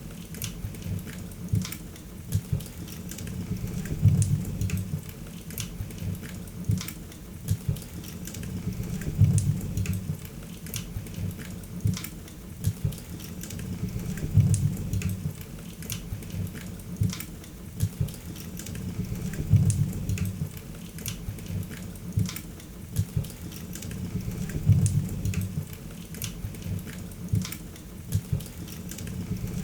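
Wood fire in a fireplace crackling, with many sharp pops and snaps. Under it runs a low rumble that swells regularly, about every five seconds.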